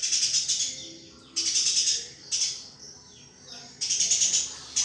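Eurasian tree sparrow chirping in short bursts of fast, high-pitched notes, four bursts each under a second long with pauses between.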